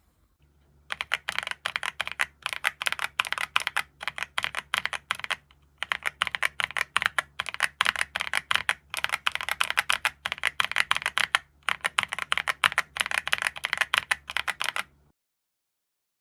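Rapid typing on an EPOMAKER EK21 gasket-mount mechanical number pad with linear switches: a dense run of key clicks and thocks, briefly pausing twice, then stopping abruptly.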